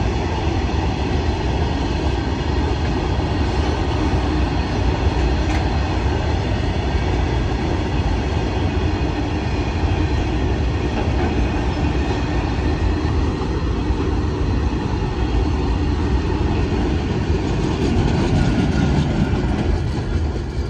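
A train passing close by: a steady, loud rumble of its wagons running over the rails.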